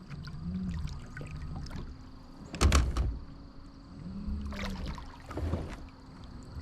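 Electric trolling motor on a kayak running with a low hum whose pitch rises and falls, with water noise against the hull and a loud sudden burst about two and a half seconds in.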